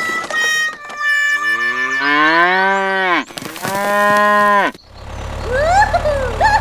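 Two long, low mooing calls, the first sliding in pitch and the second held level. From about five seconds in, a steady low engine hum begins, with short chirping glides over it.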